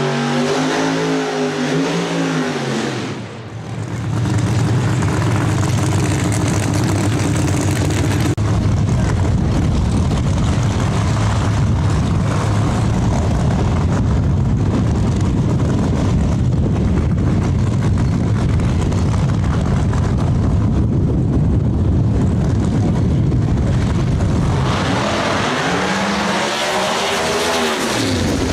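Race car engine running steadily, with the revs rising and falling in the first few seconds and again near the end.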